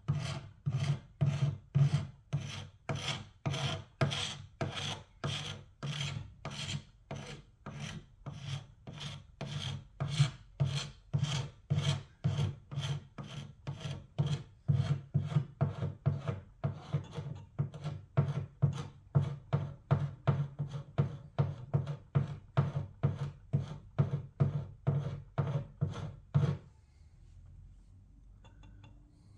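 Old paint and finish being worked off wood by hand, a tool rubbing back and forth over the surface at about two strokes a second. The strokes stop about three seconds before the end.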